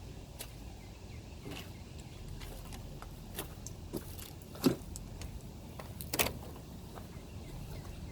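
Scattered clicks and knocks from hand work, with two louder knocks about halfway through and a second and a half later, over a low steady rumble.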